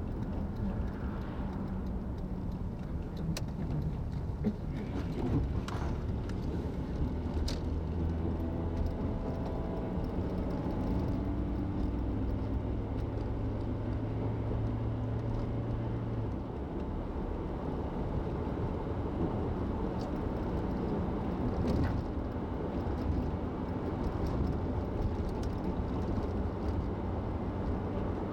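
Steady road and engine noise heard from inside a moving car's cabin, with a low hum of several tones that comes in about six seconds in and fades about ten seconds later, and a few faint ticks.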